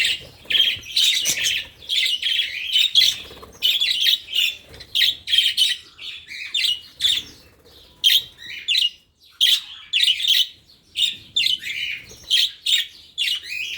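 Aviary budgerigars and cockatiels calling: a busy, overlapping stream of short chirps and squawks, with a brief lull about eight seconds in.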